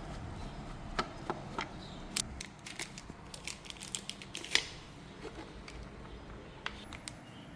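A string of small irregular clicks and taps, as of small parts being handled and worked by hand, the loudest about four and a half seconds in, over a low hum that fades out early on.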